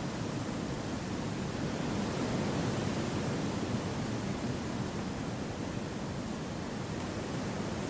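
Gentle wind blowing through forest trees: a steady, even rush that is fullest in the low range and swells slightly a couple of seconds in.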